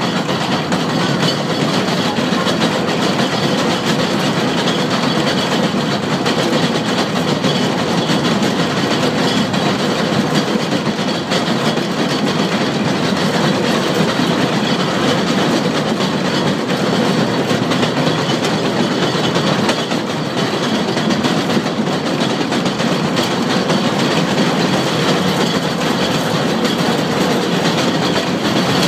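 Electric rack railcar running steadily along a rack section of track: a continuous rumble of wheels on rail and running gear, with a faint steady whine.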